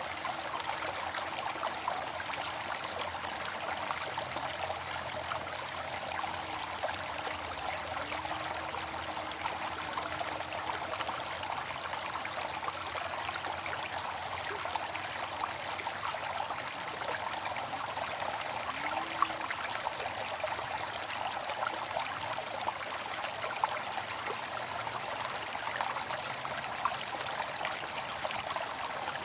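Water fountain splashing and trickling steadily, with a few slightly louder splashes.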